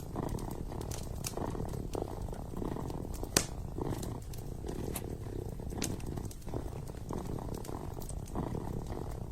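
Kitten purring steadily and close, with the sharp pops and crackles of a wood fire in a fireplace scattered over it; one pop a little over a third of the way in is louder than the rest.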